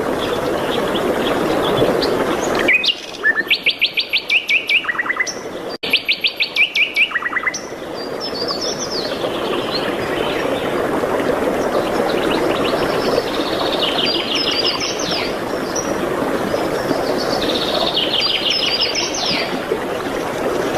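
Songbirds singing, with several fast trills of rapidly repeated high notes and scattered chirps, over a steady rushing background noise that cuts out for a few seconds about three seconds in.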